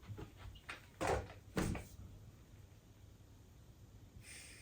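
A few short knocks and bumps from a vacuum cleaner being handled and set on a scale, the two loudest about a second in and a second and a half in, then a brief hiss near the end.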